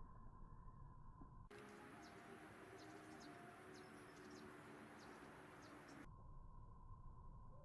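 Near silence with a faint hiss; for a few seconds in the middle, several short, faint bird chirps.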